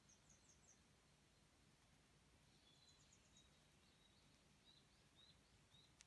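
Near silence with faint bird chirps: quick runs of three or four short, high chirps near the start and again from about two and a half seconds on, with a few short, lower notes towards the end.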